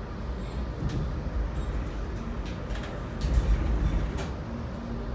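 Metra BNSF Line commuter train running along the track: a steady low rumble with a few sharp clicks and knocks, and a brief swell in loudness past the middle.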